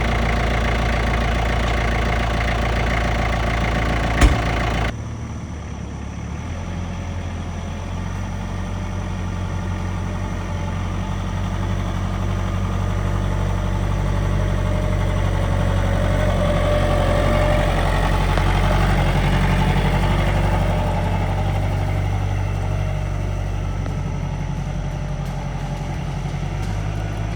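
Tractor engine running steadily after being jump-started on a dead battery. A sharp click comes about four seconds in, and right after it the sound turns duller; the engine then swells gently and eases off again.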